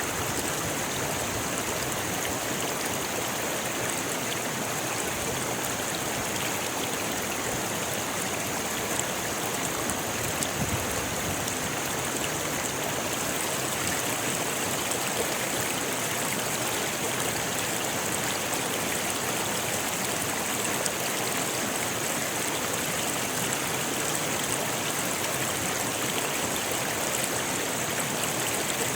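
Rocky river flowing over stones: a steady, continuous rush of water.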